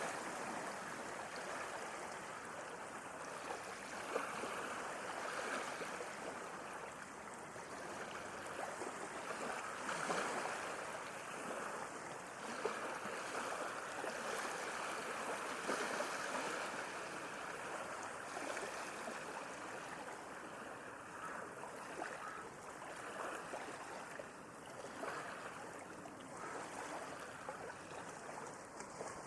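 Sea waves washing in, a continuous rush of water that swells and eases every few seconds.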